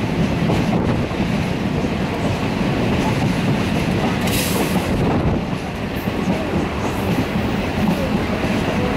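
Coimbatore Intercity Express passenger train running, heard from aboard a moving carriage: a steady low noise of wheels on the rails, with a brief hiss about four seconds in.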